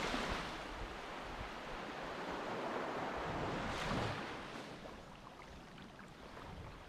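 Sea water washing and surging, with wind on the microphone; the rush swells at the start and again about four seconds in.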